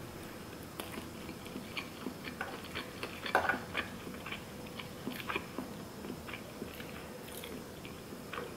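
Close-up chewing and biting of a nori-wrapped sushi burrito: soft, irregular mouth clicks and small crunches, with a louder crunchy cluster a little after three seconds in.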